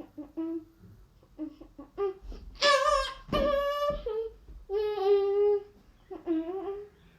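A child's voice humming and singing wordless notes: a few short hums, then several longer held notes, each under a second.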